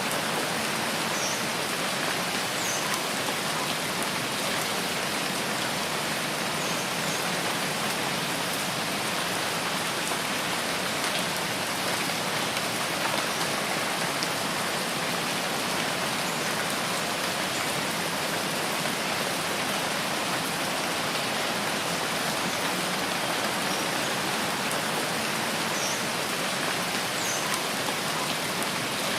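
Steady, even rainfall in a rainforest, with a few faint, short high chirps here and there.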